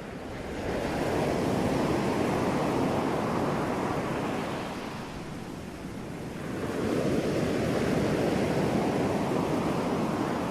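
Ocean waves breaking and washing ashore, a steady rushing surf that swells twice: once about a second in and again about seven seconds in.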